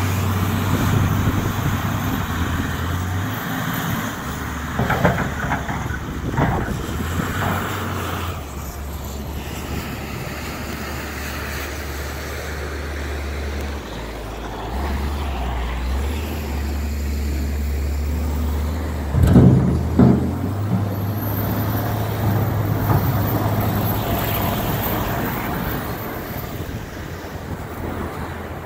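Heavy vehicle engine running, its low drone stepping up and down in pitch several times, with a few sharp knocks a few seconds in and a louder clatter about two-thirds of the way through.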